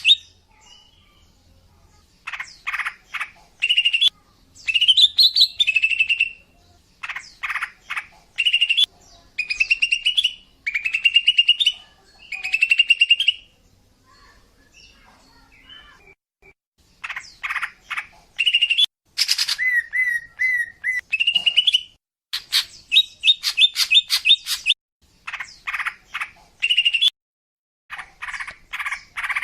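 Female greater green leafbird (cucak ijo) calling in short phrases of rapid chirps and trills, with a quiet pause of about three seconds midway. It is the female call used to lure males.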